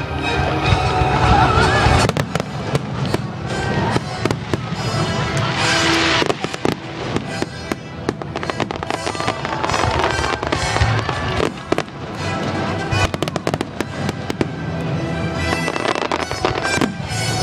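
Fireworks display finale: a dense run of shells bursting and crackling one after another, with music playing alongside.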